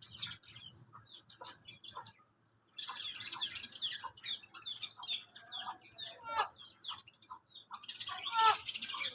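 Many small cage birds chirping and calling over one another, in quick overlapping chirps. There is a short pause about two and a half seconds in, then a denser burst of chirping, and it grows loudest near the end.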